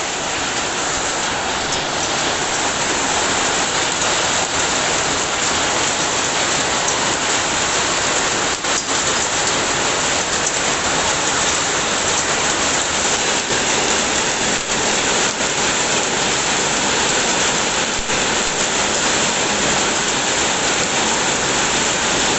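Steady rain falling, a constant even hiss that does not change.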